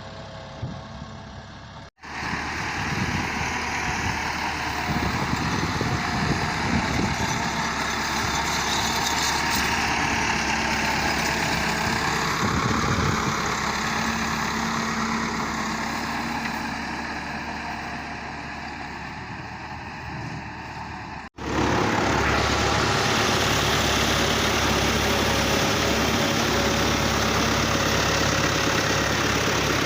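Massey Ferguson 385 tractor's four-cylinder diesel engine running steadily, in three stretches joined by abrupt cuts about two seconds in and about two-thirds of the way through.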